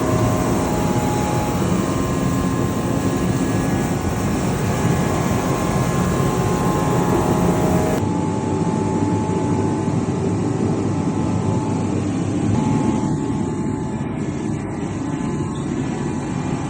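BILT HARD 135,000 BTU forced-air kerosene/diesel torpedo heater running on No. 2 diesel: the steady roar of its burner and blower fan, with a faint hum underneath.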